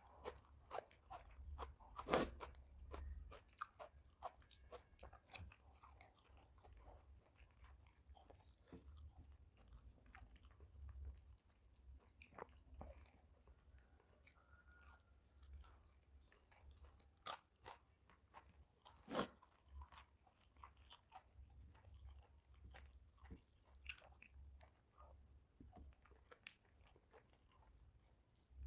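Faint chewing and biting, a person eating close to the microphone, with many small crisp crunches and two louder crunches, about 2 seconds in and about 19 seconds in.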